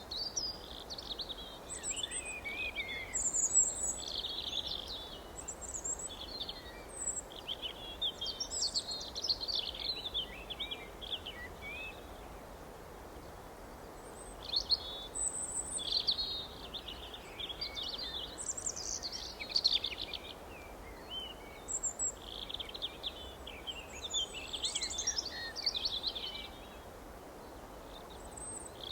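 Several songbirds chirping and twittering in quick, overlapping phrases, with a short lull about halfway through, over a steady background hiss.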